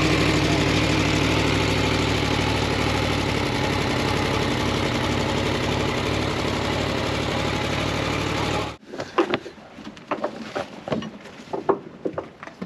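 Aprilia Tuono V4 1100's V4 engine idling steadily, then switched off abruptly about nine seconds in; a few scattered knocks and clunks follow.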